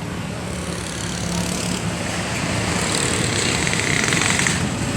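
Road traffic with a vehicle engine running low and steady. Partway through, a hiss builds and then cuts off just before the end.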